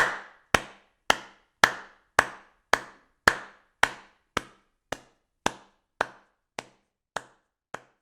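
A steady series of sharp knocks, a little under two a second, each with a short ringing tail, growing fainter toward the end.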